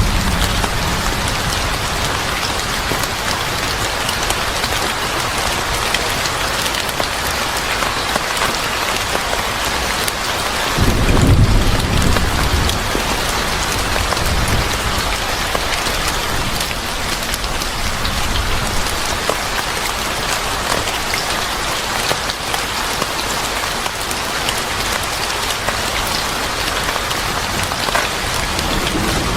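Steady heavy rain falling on a surface, with a low rumble of thunder swelling about eleven seconds in and fading over a couple of seconds.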